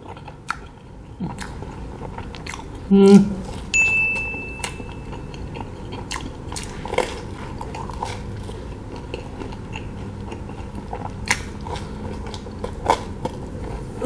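Close-miked mouth sounds of someone biting into and chewing a soft slice of durian cheese pizza, with small wet smacks and clicks throughout. About three seconds in comes a short, loud voiced sound, and just after it a thin high tone lasting under a second.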